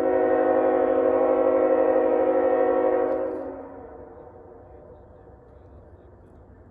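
Diesel locomotive air horn sounding one long blast, several notes at once, starting suddenly and fading away about three and a half seconds in.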